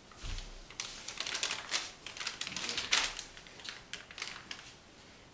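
Irregular clicks, taps and rustles of paper-bag puppets being handled and moved, with a low thump just after the start.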